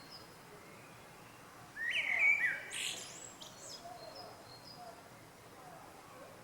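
A small songbird singing: one loud, quick phrase of rising and falling notes about two seconds in, with fainter bird chirps in the background.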